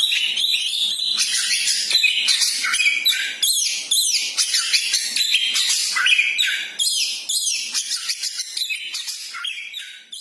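Burung koci calling in a dense, continuous run of rapid high chirps and down-slurred whistles, fading out near the end.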